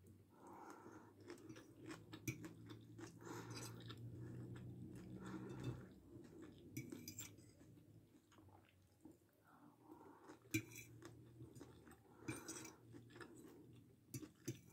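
Faint close-up chewing of a mouthful of rice and chicken stroganoff, with scattered small clicks of a fork against a glass plate.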